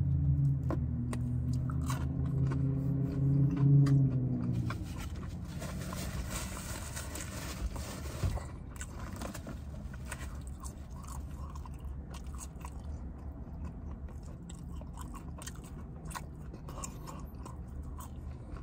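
Close-up chewing and biting of McDonald's chicken nuggets and fries, with small crunches and wet mouth clicks. A low vehicle engine hum swells under it and stops about five seconds in.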